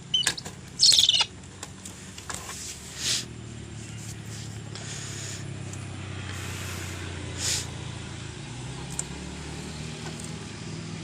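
A short, shrill bird call about a second in, with a few clicks and scrapes, over a steady low hum.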